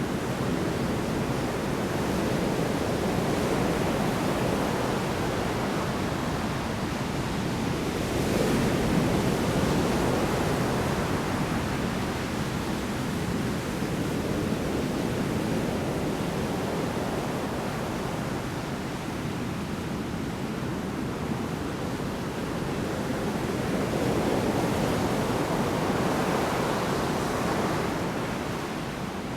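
Large storm waves breaking on the shore: a continuous wash of surf that swells and falls as the waves come in, loudest about eight seconds in and again around twenty-five seconds.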